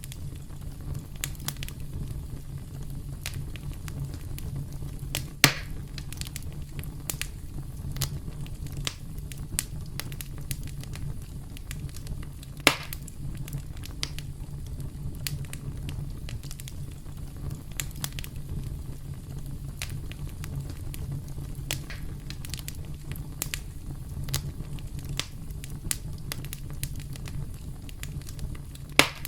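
Campfire crackling: burning wood pops and snaps at irregular intervals over a steady low rumble of the flames, with a few louder pops about five seconds in, about thirteen seconds in, and near the end.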